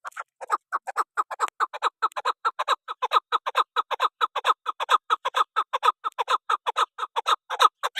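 A bird calling in a fast, unbroken series of short clipped notes, about six a second, each note dropping slightly in pitch.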